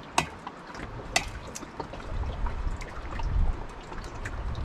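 Water trickling, with a few sharp clicks and knocks of cooking things: the two loudest come near the start, about a second apart, over a low rumble.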